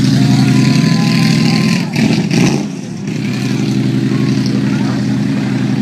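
Large engine of a vintage speedster running at low, steady revs as the car pulls away. About two seconds in the engine note breaks off briefly, then runs steady again.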